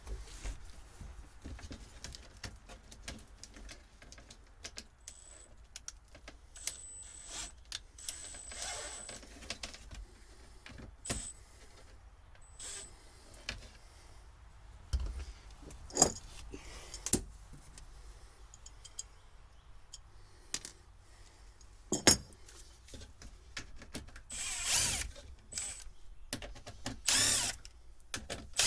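Scattered clicks, knocks and clatter of tools and parts being handled, with two short bursts of a power drill running near the end.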